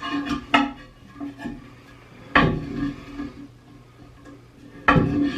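Hard clunks and clinks of the plastic flush handle and its mounting nut knocking against the porcelain toilet tank as the handle is taken off. There are a few separate knocks, the two loudest about two and a half seconds apart.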